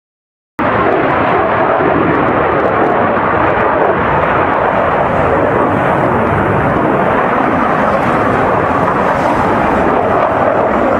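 Loud, steady aircraft engine noise from a plane in flight, cutting in suddenly about half a second in.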